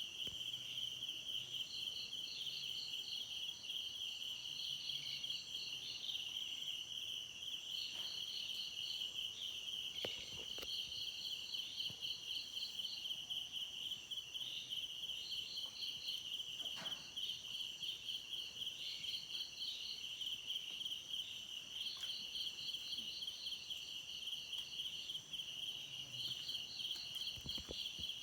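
Insects chirring: one steady, rapidly pulsing high trill, with a second, higher trill breaking in and out in bouts of a second or two.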